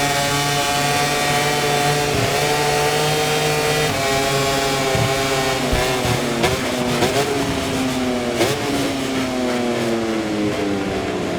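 Onboard sound of an Aprilia RS-GP MotoGP bike's V4 engine at high revs with quick gear changes. Past the middle come sharp throttle blips, and the pitch then falls steadily as it downshifts and slows for a corner.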